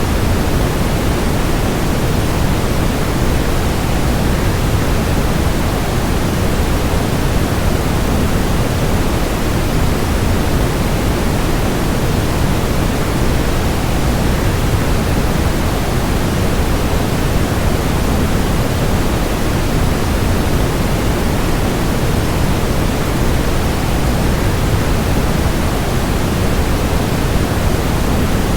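Steady, unchanging rushing noise of a waterfall blended with white noise, deeper than a plain hiss.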